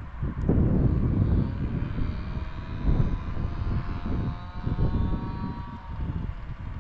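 A passing engine with a whine that falls slowly in pitch over several seconds, over gusty wind rumble on the microphone.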